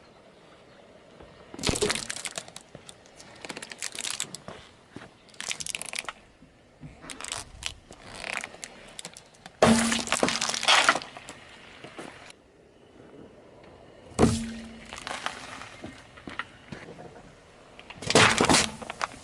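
Brittle objects cracking and breaking as a car tyre crushes them. There is a series of separate crunching, crackling bursts, and the loudest come about ten seconds in and near the end.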